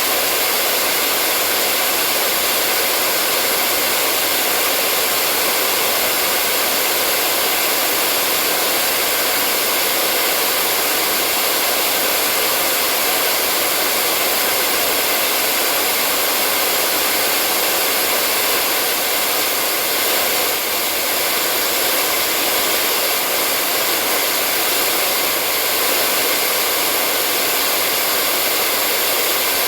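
Hair dryer running steadily: a constant airy rush with a faint motor hum, unchanging throughout.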